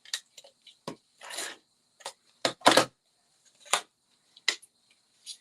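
Paper and craft supplies being handled on a tabletop: a brief rustle about a second in, then a handful of sharp taps and clicks, the loudest nearly three seconds in.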